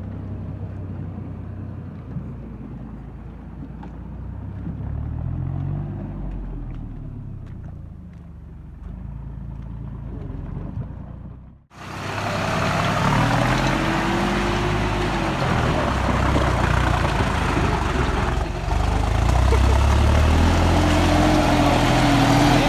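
Deutz-Fahr 4055 tractor's diesel engine running, its pitch rising and falling as it is revved. Just before halfway the sound cuts abruptly to a much louder, closer take of the engine, again revving up and down.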